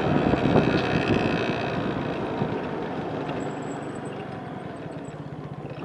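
Vehicle engine and road noise on the move, steady at first and then growing gradually quieter toward the end.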